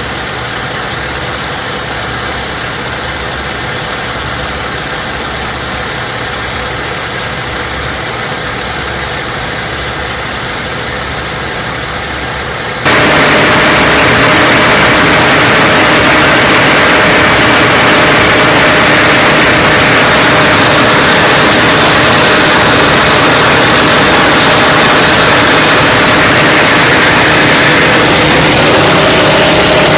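Nine-cylinder radial engine of a Nanchang CJ-6 trainer running steadily. About thirteen seconds in, the sound jumps abruptly louder and brighter and holds there.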